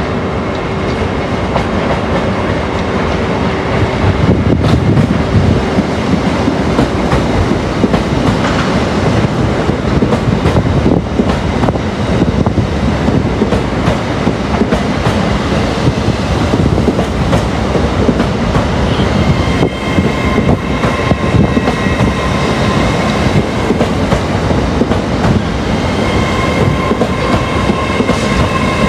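A train moving through the station at close range, with wheels clicking over rail joints. Steady high-pitched tones come and go in the second half, about twenty seconds in and again near the end.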